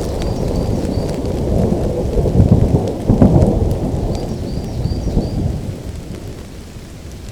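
Rolling thunder over steady rain: a deep rumble that swells about two to three seconds in, then fades away toward the end, leaving the rain.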